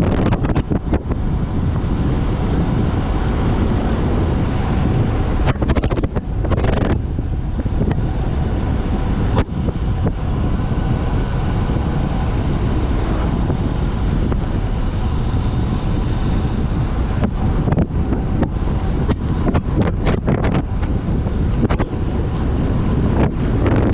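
Loud wind rushing over the microphone of a bicycle speeding downhill, gusting unevenly with brief dips.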